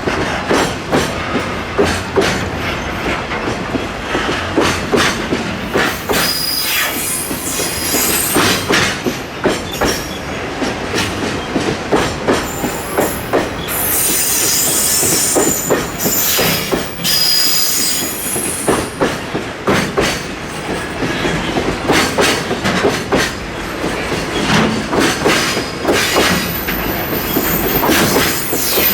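Empty Taki 1900 cement tank wagons rolling slowly over rail joints and points, their wheels clacking irregularly. High-pitched wheel squeal comes and goes about three times.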